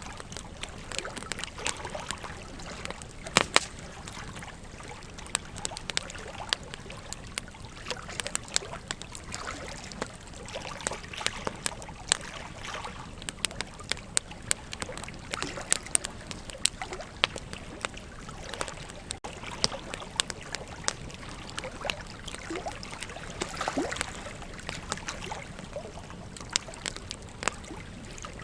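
Wood fire crackling with frequent irregular sharp pops, over the steady rush of flowing river water.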